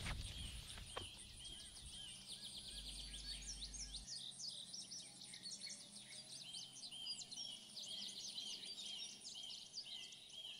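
Faint forest birdsong: several small birds chirping and trilling, with one short call repeated at a steady pace.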